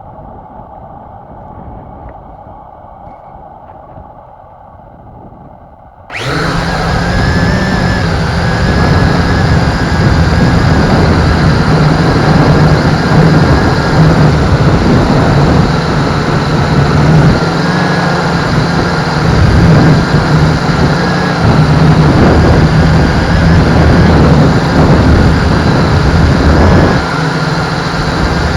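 MJX X101 quadcopter's motors and propellers start up suddenly about six seconds in. They then run as a loud, steady buzz with a constant pitch, over a rumble of strong wind.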